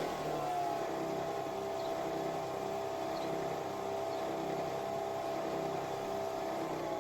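Nespresso Vertuo Pop+ coffee machine running with a steady motor whir of several held tones, whose pitch shifts just after the start and again near the end.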